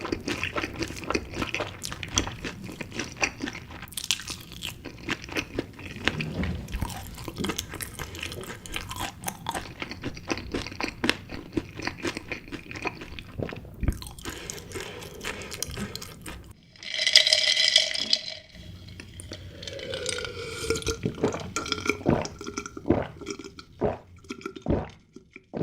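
Close-miked eating of chicken pieces in spicy sauce: biting, crunching and chewing with dense crackly clicks, then sparser ones. A brief louder burst comes about seventeen seconds in.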